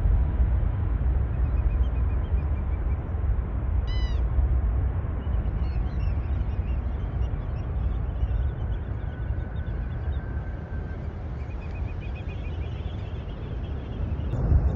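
Birds chirping and calling in short, scattered phrases over a steady low rumble.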